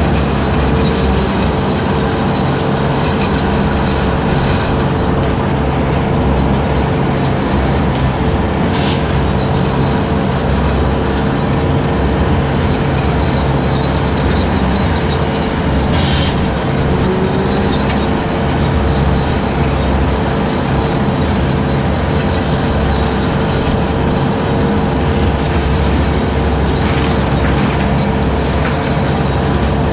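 Skid steer running with its 72-inch hydraulic brush cutter spinning while it cuts long grass: a steady engine drone with a constant whine over it, and two brief sharp ticks.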